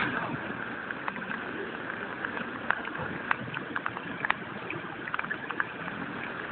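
Heavy rain falling steadily, with scattered sharp taps of drops and drips striking nearby surfaces.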